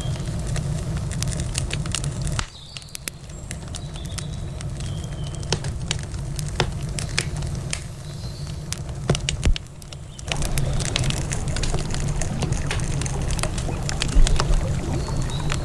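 Wood campfire crackling, with frequent sharp pops and snaps. A low rumble underneath cuts out about two seconds in and comes back about ten seconds in.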